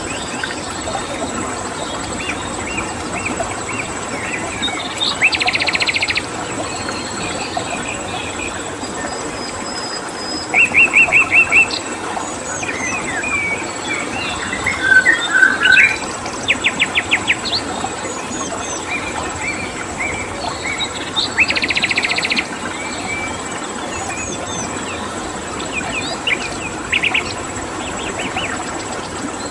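Several wild birds chirping and calling over a steady rush of running stream water, with a constant high cricket trill. Four times a bird gives a short burst of fast, evenly repeated notes.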